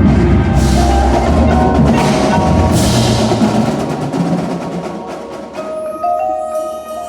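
Winter percussion ensemble playing: drums and cymbal crashes over a heavy low bass, with marimba and other mallet keyboards. About five seconds in the bass and drums fall away, leaving sustained mallet keyboard tones ringing.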